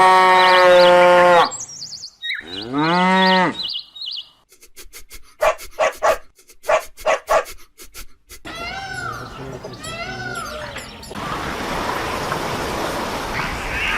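A cow mooing loudly for about a second and a half, followed by a second, shorter lowing call that rises and falls. After these comes a run of sharp clicks and knocks, then a few short arched calls, and near the end a steady hiss.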